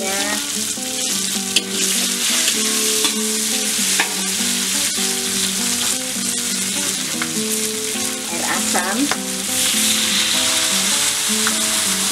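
Green beans and chilli sizzling in hot oil in a metal wok, stirred with a metal spatula, with a few sharp knocks of the spatula against the pan.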